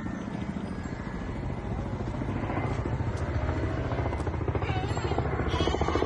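Helicopter rotor chopping steadily, with a few voices heard faintly near the end.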